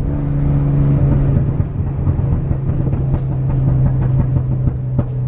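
Sports car engine and exhaust running at steady revs while cruising, a constant drone that holds one pitch with no revving up or down, with scattered light ticks and rattles in the second half.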